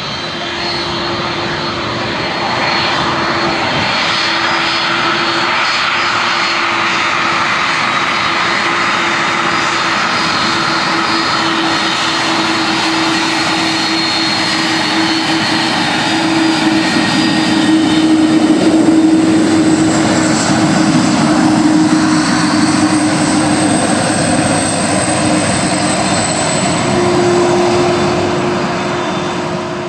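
Airliner engines running loud and continuous, with a steady hum and high whining tones, swelling in the second half and starting to fade near the end.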